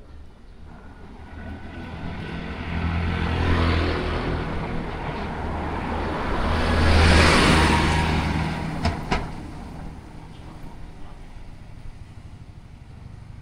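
Two motor vehicles driving past close by one after the other, each a swell of engine hum and tyre noise that rises and fades, with a couple of sharp clicks just after the second.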